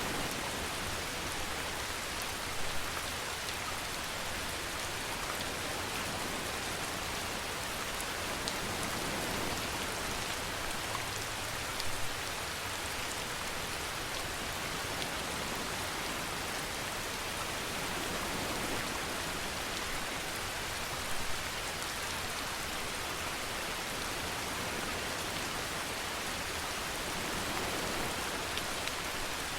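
Steady rainfall: a dense, even hiss of rain on a surface, with a few louder drops or splashes standing out now and then.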